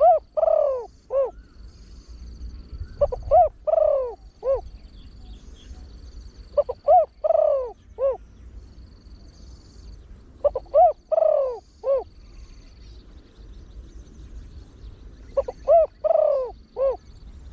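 Spotted dove cooing in the 'khan yon 1 kuk' style of a trained bird, with a short lead note before each phrase. Five phrases come every three to four seconds, each a few short hoots around one longer, falling coo.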